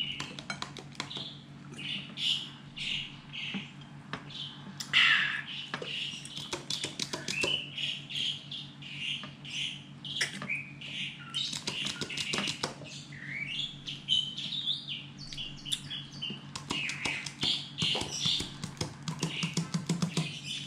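Small birds chirping over and over in short calls, over a steady low hum, with scattered small clicks.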